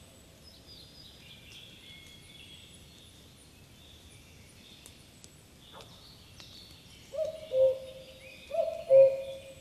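Spring forest birdsong: small songbirds twitter thin and high throughout. From about seven seconds in, a common cuckoo calls its two-note 'cuck-oo', the second note lower, twice about a second and a half apart, louder than the rest.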